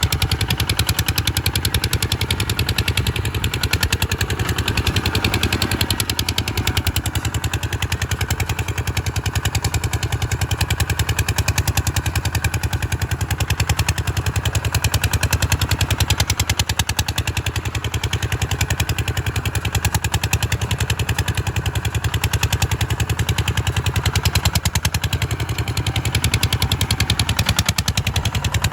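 An engine running steadily, a rapid even train of firing pulses with no change in speed.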